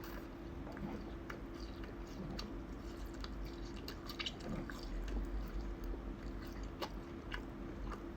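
Chewing a piece of latiao, a chewy spicy wheat-gluten snack, with small scattered wet clicks, over a steady low hum.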